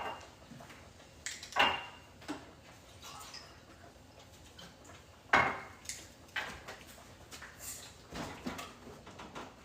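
Kitchen clatter: a handful of separate knocks and clinks of dishes and doors being handled, the sharpest about five and a half seconds in.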